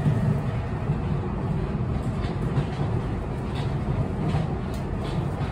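Keio Inokashira Line commuter train running, heard from inside the passenger car: a steady low rumble of wheels on rails, with a few faint clicks in the middle.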